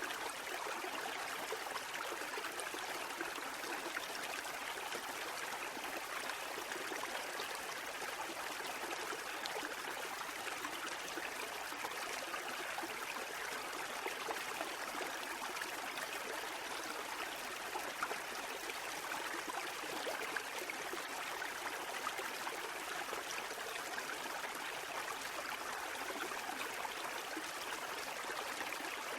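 Water rushing and trickling in a steady, even stream, with no rise and fall of breaking waves.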